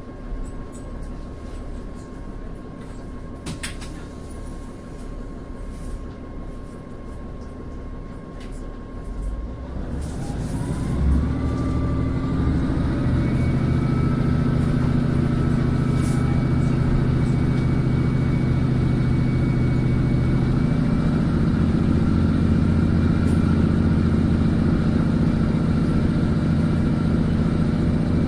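Inside a train carriage: a low rumble with a few light clicks, then about ten seconds in the train's motors power up with a short rising whine and settle into a louder, steady humming drone.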